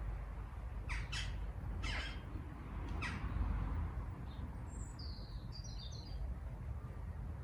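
Birds calling: four short, harsh calls in the first three seconds, then a cluster of high chirps about five to six seconds in, over a steady low rumble.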